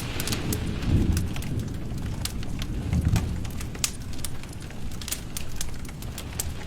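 Rain and a crackling wood fire together: frequent sharp pops and snaps over a steady low wash of rain, which swells briefly about one and three seconds in.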